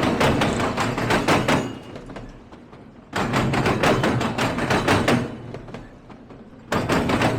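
Freight car wheels clattering over a rail crossing or joints as a slow train rolls by: a group of rapid clacks each time a car's trucks pass, repeating about every three and a half seconds.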